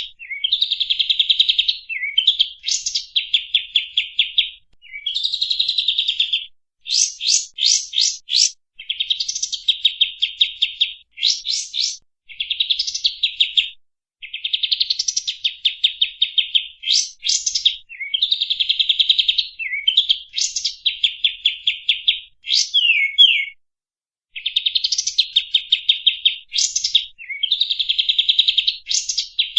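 Songbird singing a loud, harsh song of fast rattling trills, each lasting a second or two, separated by short pauses and broken up by quick rising whistled notes.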